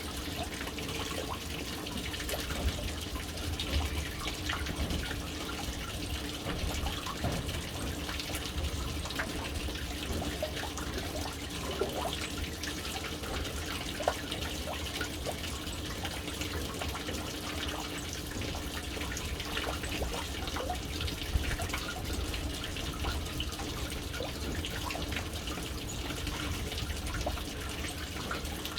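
Water pouring steadily into a household water tank, a continuous splashing rush with scattered louder drips and splashes.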